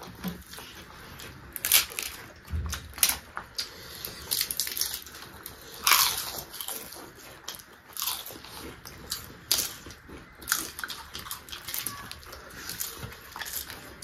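People eating: chewing and biting mouthfuls of food, with irregular sharp clicks and crunches of mouth sounds. The loudest comes about six seconds in.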